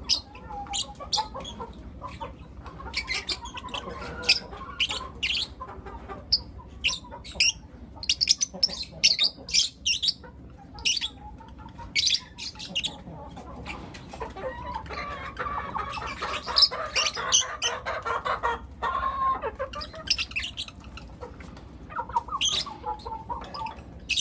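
Pet lovebirds calling with many short, sharp, high-pitched chirps, and a few seconds of denser chattering in the middle.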